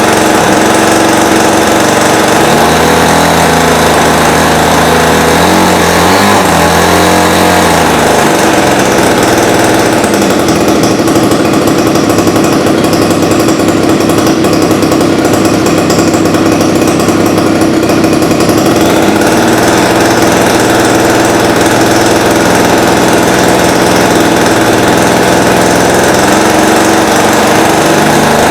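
ZDZ 40 RV two-stroke gasoline RC-aircraft engine running loudly on the ground, its high-speed needle set a tad rich. It runs at a lower speed, is throttled up to a higher steady note for about ten seconds in the middle, and then drops back down.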